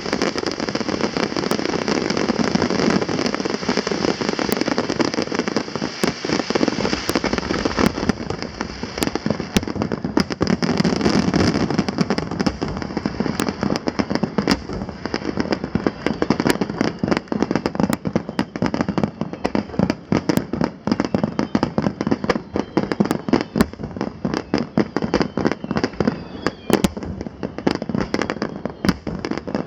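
Aerial fireworks finale barrage: many shells bursting at once in a dense, continuous din. After about eight seconds it breaks into rapid, closely packed cracks and bangs.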